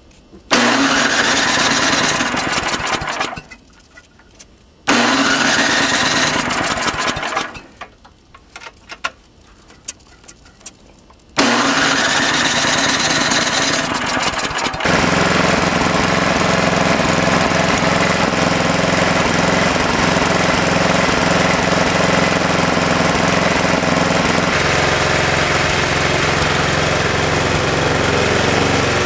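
Snowblower's gasoline engine cold-started with its electric starter: the starter cranks it in three bursts with a rising whine, with pauses between. On the third try the engine catches about 15 seconds in and settles into steady running, its note shifting slightly near the end.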